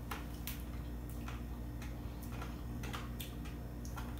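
Chewing a Jello shot topped with crunchy sugar sprinkles: a string of small irregular crunches, about two a second, over a steady low hum.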